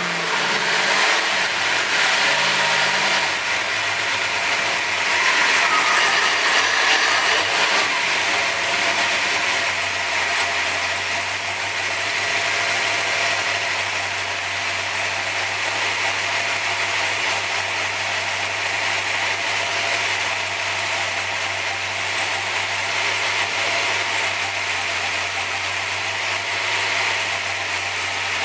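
440ci small-block Chevrolet race engine on a dyno coming down off a full-power pull: the revs fall at the start and hunt unevenly, and after about ten seconds it settles into a steady idle. A high mechanical rattle runs over the engine note throughout.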